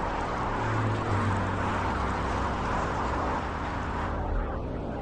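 Steady traffic noise from cars on the highway below: a continuous tyre hiss with a low engine hum, easing slightly about four seconds in.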